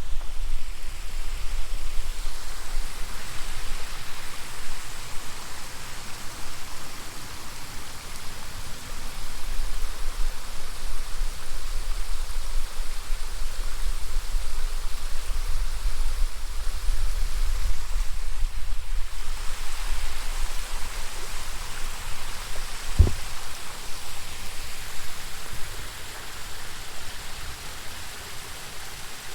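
Mineral spring spouter: water gushing steadily from the spring and splashing, with a low rumble underneath and one sharp knock about two-thirds of the way through.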